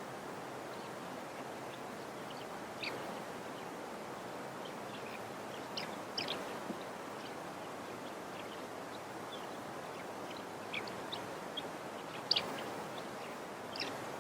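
Scattered short, high bird chirps, about half a dozen, the loudest about twelve seconds in, over a steady background hiss.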